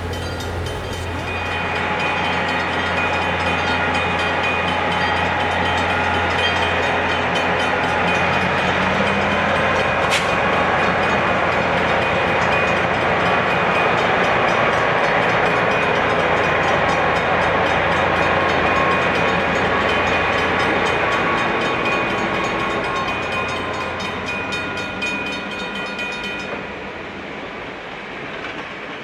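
Diesel-hauled train rolling past at crossing speed: locomotive engine and cars on the rails, growing louder within the first couple of seconds, then fading away over the last several seconds.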